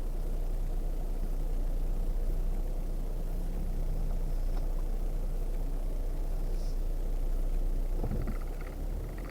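Off-road vehicle's engine running steadily at low speed on a trail, with a few brief knocks near the end.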